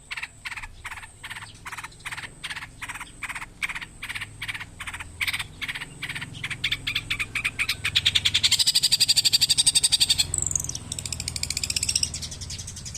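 Long-tailed shrike (pentet) calling: a string of short, sharp notes at about four a second that speed up into a fast chatter. About eight seconds in it breaks into a loud, harsh rasping call lasting a couple of seconds, then a few falling notes.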